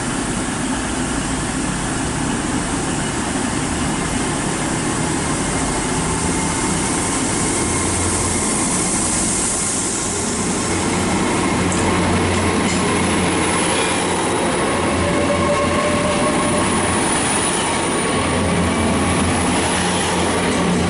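Hitachi Class 800 bi-mode train pulling away from the platform, its underfloor diesel engines running as it gathers speed, with steady train running noise and a faint high whine that grows louder about halfway through.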